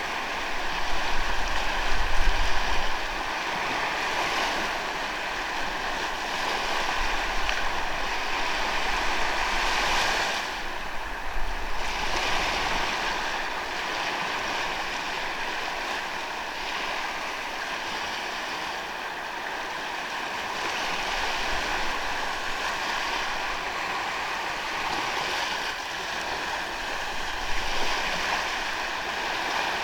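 Sea waves breaking and washing up a sandy beach, a continuous surf that swells and eases every few seconds. Wind on the microphone adds a low rumble in the first few seconds.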